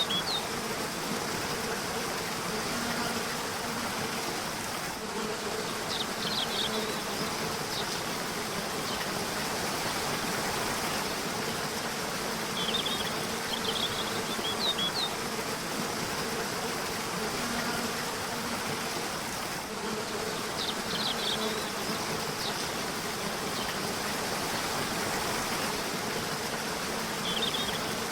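Steady rushing of a river or waterfall with a faint low hum under it. Short bursts of high bird chirps come back about every seven seconds.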